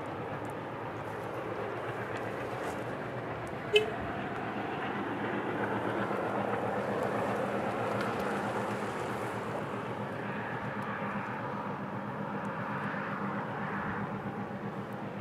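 Distant freight train rolling along the line: a steady rumble that swells a little midway. A single sharp click comes about four seconds in.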